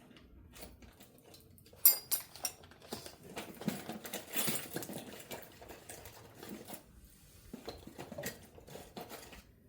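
Small metal tools and guitar parts being handled on a workbench during fret work: a sharp click about two seconds in, then several seconds of scraping and rustling with scattered light clicks.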